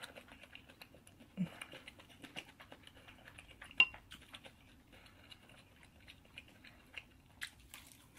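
Close-miked chewing of fried chicken: small wet mouth clicks and crackles. About four seconds in comes a single sharp clink that rings briefly, and near the end a few crisp crunches as she takes another bite.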